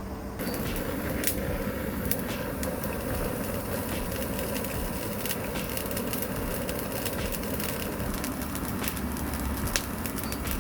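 Bonfire burning, crackling with sharp pops scattered through a steady rushing noise.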